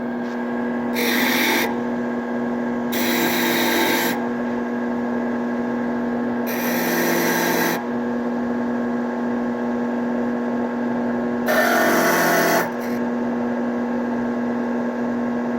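A steel wire brush scrubbing a flat-black powder-coated test piece in four separate bursts of about a second each, testing how well the coating resists wear, over a steady motor hum.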